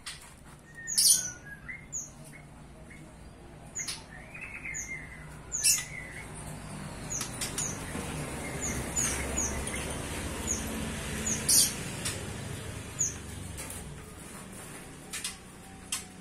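Pet songbirds chirping, many short, high, down-slurred chirps scattered throughout, with a few sharp, louder flutter-like rustles, the loudest about a second in and near the middle. A low rumbling noise swells through the middle.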